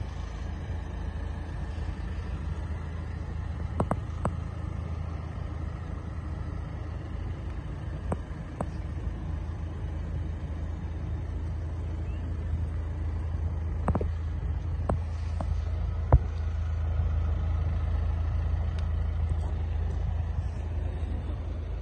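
Steady low hum of a Vauxhall Insignia's diesel engine idling, with a few sharp clicks and knocks scattered through, the loudest about two thirds of the way in.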